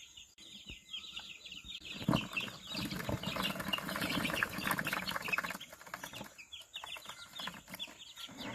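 Chickens calling: many short, high, falling calls throughout, with a louder stretch of rustling from about two to five seconds in.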